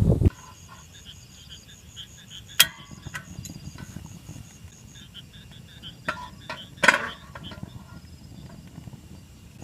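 Forest ambience: an insect chirps in a rapid, even high pulse, about five a second, that stops about halfway, with scattered short bird chirps. Two sharp knocks come, one about two and a half seconds in and one about seven seconds in, and a loud rushing noise cuts off at the very start.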